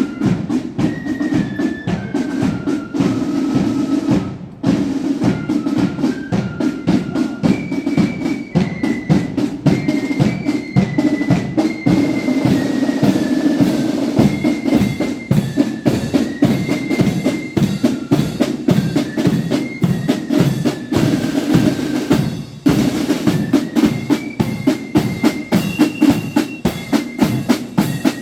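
Marching flute band playing a tune, a high melody carried over rapid snare drum rolls and bass drum beats. The music breaks off briefly twice and starts again.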